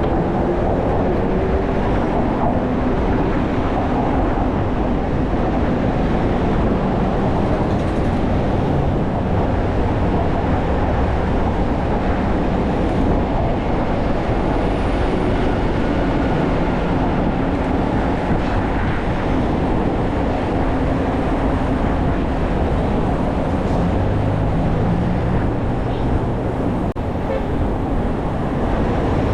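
Steady loud rumble of wind and road noise on a moving bicycle's camera microphone, with city traffic mixed in.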